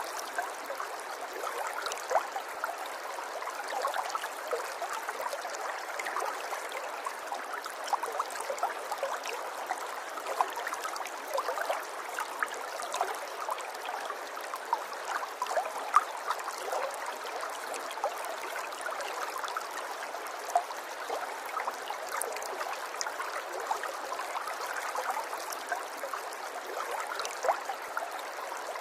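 River water flowing steadily over stones, a gentle babble full of small splashes and gurgles.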